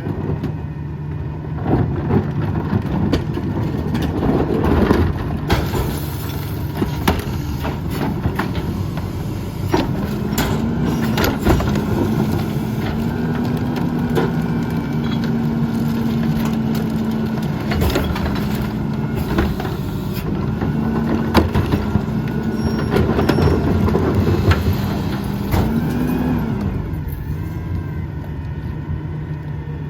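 Mack MRU garbage truck with a McNeilus rear-loader body working: the diesel engine runs throughout, under repeated bangs and clatter. About a third of the way in the engine tone steps up and holds for roughly fifteen seconds, typical of the engine speeding up to drive the hydraulic packer. It falls back to idle near the end.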